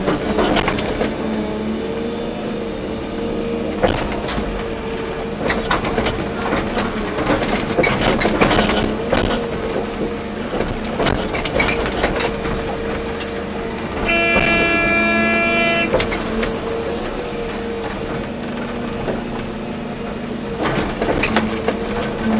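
Volvo EC240B excavator working: its diesel engine runs steadily, its pitch wavering as the hydraulics are loaded, and the bucket knocks and scrapes through soil. About fourteen seconds in, a horn sounds once for under two seconds.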